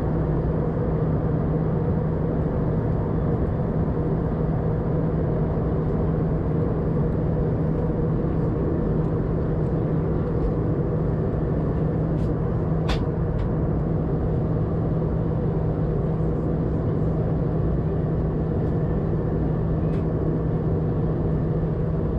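Steady cabin noise inside an Airbus A320-200 in flight: an even drone of the CFM56 engines and airflow, with a steady low hum under it. One sharp click about 13 seconds in.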